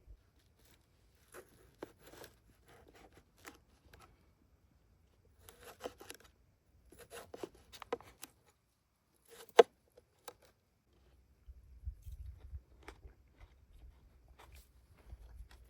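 Close crunching and tearing of food in short bursts, with one sharp, loud click about ten seconds in.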